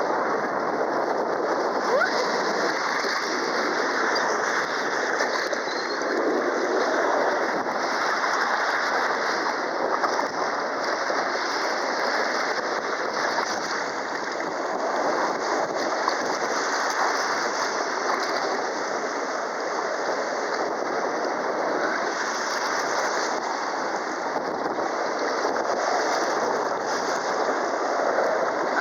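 Steady rushing water noise, even and unbroken, with no single splash or impact standing out.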